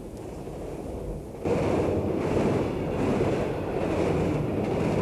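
Steady rushing, rumbling noise of a train under way, starting abruptly about a second and a half in over a faint low rumble.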